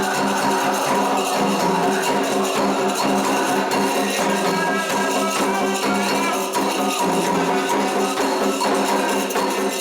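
Candomblé ceremonial music: voices singing held notes over continuous bright hand percussion with a shaking, jingling rattle.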